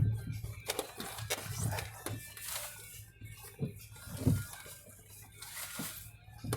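Vehicle jolting through floodwater and mud: irregular knocks, clicks and creaks of the body, with a couple of splashes.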